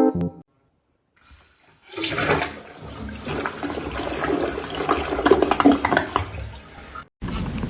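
Toilet flushing: a loud rush of water starts about two seconds in, runs for about five seconds and cuts off suddenly.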